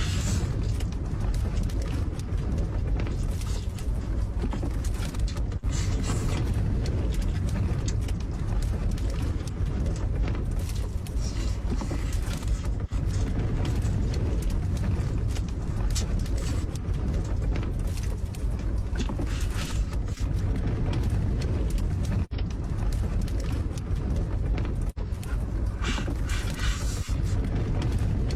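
Strong wind buffeting a small camper, heard from inside as a steady low rumble with occasional faint knocks.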